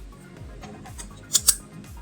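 Background music with a steady beat, over which two quick sharp snips of scissors cutting washi tape sound close together a little past the middle.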